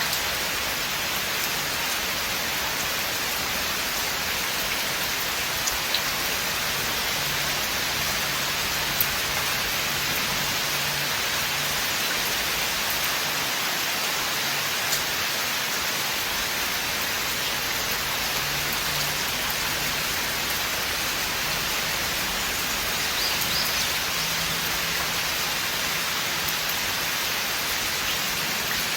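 Steady rain falling through a forest, an even hiss of rainfall with a few single louder drops ticking out of it now and then.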